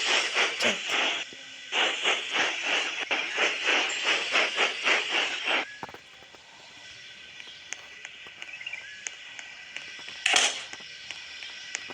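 Steam locomotive chuffing: rhythmic hissing puffs, about three to four a second, that stop about six seconds in, followed by a quieter hiss and one short burst of steam about ten seconds in.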